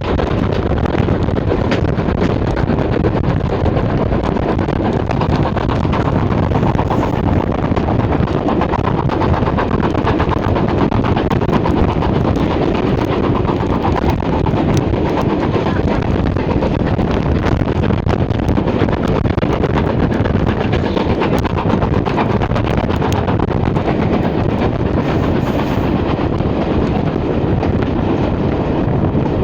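LMS Black Five steam locomotive hauling its train, a loud, steady running noise with no let-up.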